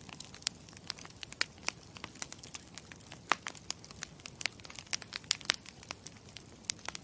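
Campfire crackling: a steady low hiss with many sharp pops and snaps, several a second. It begins and cuts off abruptly.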